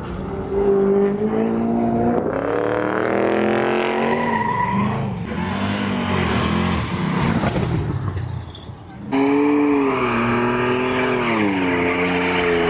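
Car engine revving, its pitch rising and falling, with some tire noise. About nine seconds in the sound cuts abruptly to another engine running steadily, which drops in pitch shortly after.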